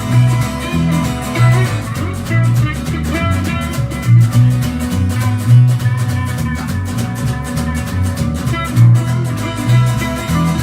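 A live band playing an instrumental passage: guitar over a steady drum-kit beat.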